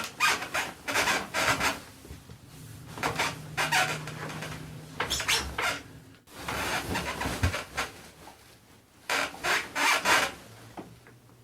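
Spring mattress on a wooden bed frame creaking and squeaking in irregular clusters of short strokes as weight shifts and bounces on it.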